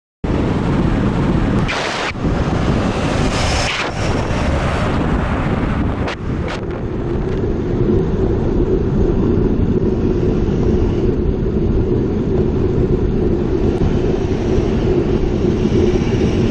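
Wind rushing over a bicycle-mounted camera's microphone while riding in road traffic, with the steady drone of motor vehicles. There are a few gusts in the first several seconds, and the noise settles into a steadier drone.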